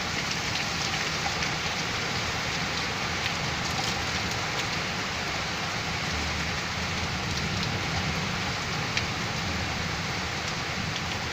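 Rain falling steadily in a severe storm: an even hiss with a few sharp drop ticks scattered through it.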